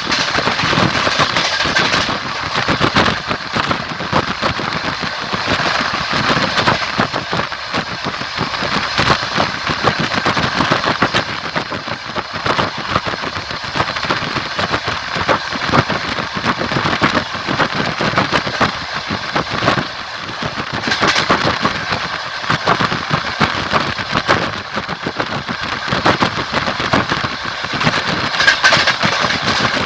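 A train running along the line: a steady rolling and rumbling noise with the clatter of its wheels on the rails.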